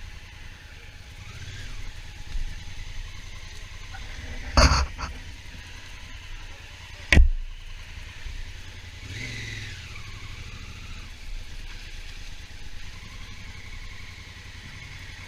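Honda Africa Twin motorcycle running on the road with steady engine and road rumble, with two sharp knocks, the louder about seven seconds in.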